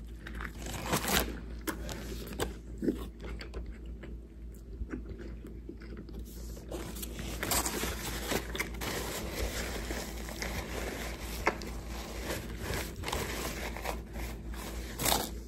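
Close-up chewing of a mouthful of hamburger: wet mouth sounds with small clicks. From about halfway through, a paper napkin rustles as it is used to wipe the mouth.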